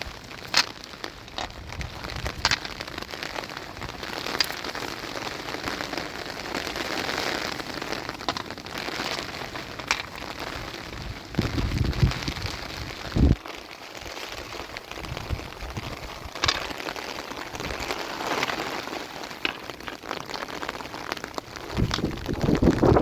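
Steady rain falling, with scattered sharp ticks of drops and a few dull knocks about halfway through and near the end.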